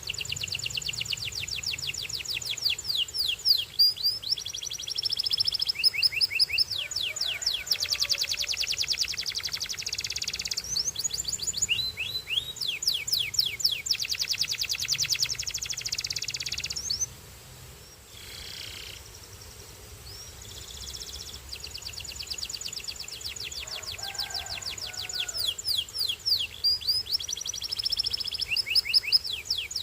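Canary singing: long runs of fast, high-pitched trills and rolls, broken by a pause of a few seconds a little past halfway before the song picks up again.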